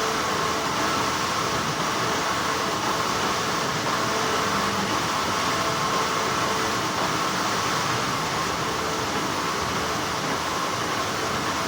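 Continuous hum of textile factory machinery: a steady, even mechanical noise with a faint steady whine.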